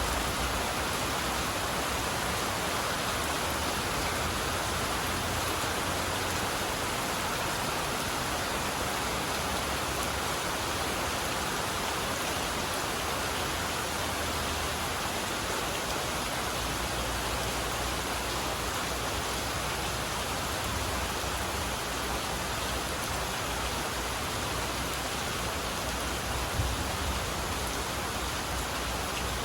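Steady rain falling in an even hiss, with one brief sharp tap near the end.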